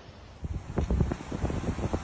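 Wind buffeting the microphone, an irregular crackling rumble that starts about half a second in.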